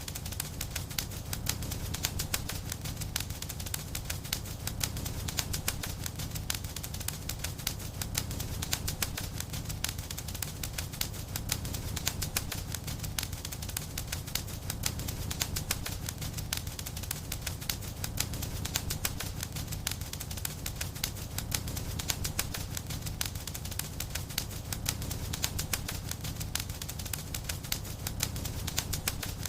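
Wood fire crackling with a dense, unbroken stream of small pops over a steady low rumble.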